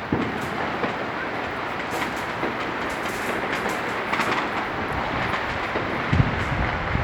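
Fireworks going off: a dense, continuous crackling peppered with sharp pops, with deeper thuds just after the start and about six seconds in.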